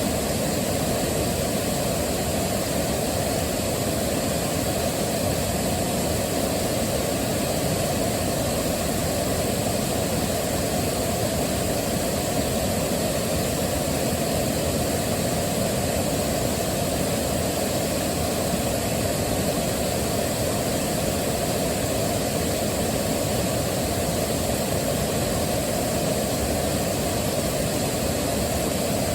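Waterfall, a steady rush of falling water, even and unbroken, heaviest in the low end.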